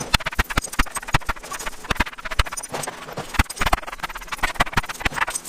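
Rapid, irregular strikes of a metal distressing tool beating on wooden boards to antique them, several hits a second, some landing on the concrete floor beneath.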